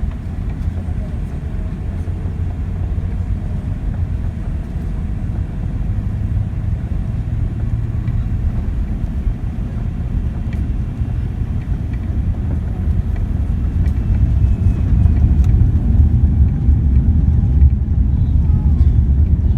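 Low, steady cabin rumble of a Boeing 787 airliner on the ground, engine and rolling noise heard from inside, growing somewhat louder about two-thirds of the way in.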